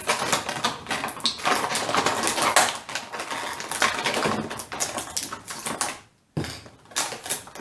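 Plastic toy packaging being handled: steady crinkling and clicking as the figure's parts come out of their plastic tray and bags, with a brief pause about six seconds in.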